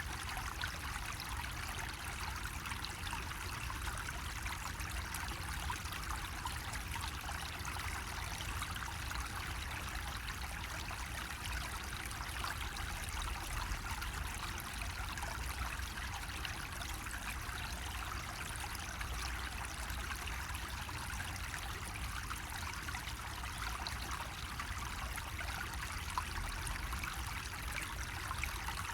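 Water running steadily from a bamboo faucet, a continuous trickle and splash with no pauses, over a low steady rumble.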